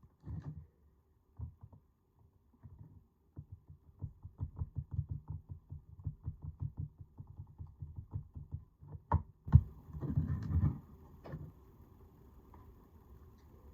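Close handling noise: a run of quick, soft, low knocks, then two sharp clicks about nine seconds in and a brief scraping rustle.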